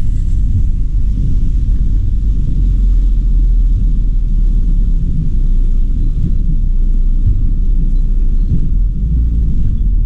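Steady low rumble of a car being driven: road and engine noise from the moving car.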